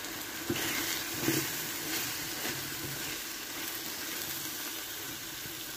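Tinned pilchards in tomato and onion sauce sizzling in a frying pan, a steady hiss, while a utensil stirs through the mixture with a few light knocks against the pan.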